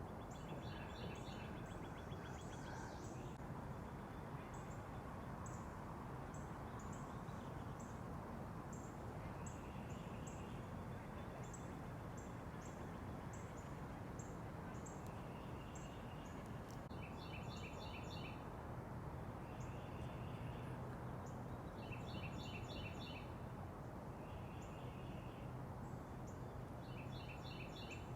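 Small songbirds calling: thin, very high short notes repeat every half second or so, and a rapid trilled phrase of about a second comes about a second in and again three times near the end. A steady low background hum runs underneath.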